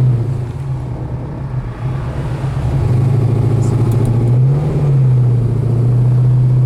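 Chevrolet ZZ3 350 small-block V8 with dual exhaust driving the car on the road: a steady low engine drone that eases back for a couple of seconds, then builds again, its pitch climbing and dropping back about two-thirds of the way through.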